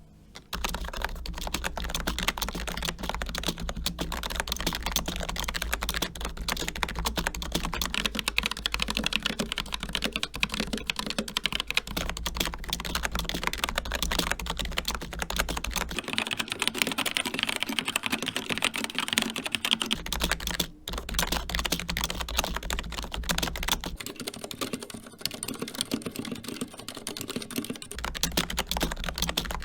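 Fast, continuous typing on a series of keyboards in turn: a Lidl Silvercrest semi-mechanical keyboard, an Asus Strix Scope RX with ROG RX Red optical switches, an Xtrfy K4 with Kailh Red switches, and a CZC Halfling with Cherry MX Silent Red switches.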